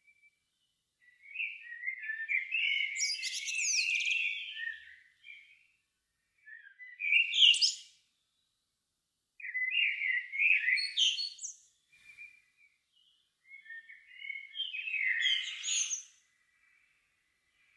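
Songbird song: four phrases of rapid warbling and trilling, each a second or few long, with short pauses between them.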